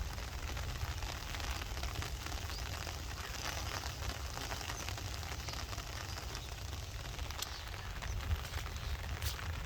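Heavy rain falling steadily, a dense patter of drops with a low rumble underneath.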